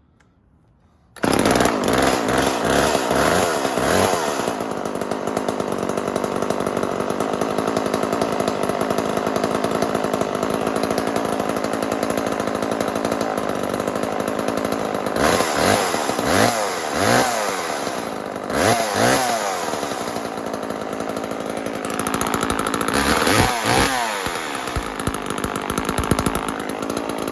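Homelite Super 2 two-stroke chainsaw engine cutting in suddenly about a second in and running steadily. Later it is revved up and down several times, in quick rises and falls of pitch.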